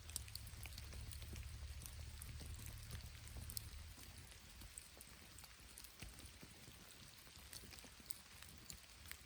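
Faint rain with a bamboo fire: an even hiss dotted with scattered small ticks and crackles, with a low rumble under it for the first four seconds.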